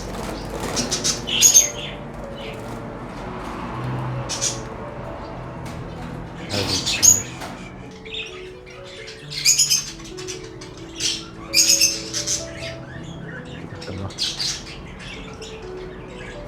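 Cockatiels squawking in short, harsh bursts, repeated every second or two, with wings flapping, as a cockatiel chick is taken out of its nest.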